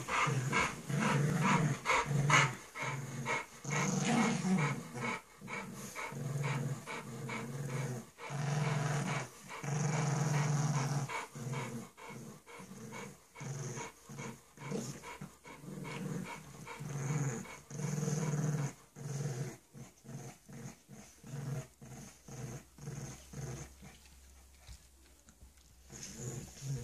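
A bulldog puppy and a pug play-growling at each other in many short, rapid bursts, with some panting; the growling eases off for a few seconds near the end.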